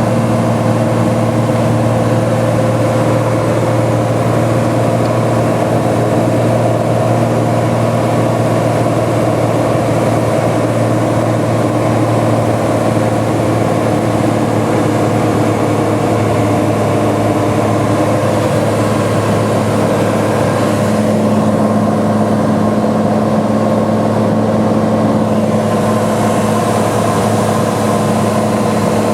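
Cessna 182's piston engine and propeller droning steadily in flight on approach. About 21 seconds in, the engine note shifts slightly.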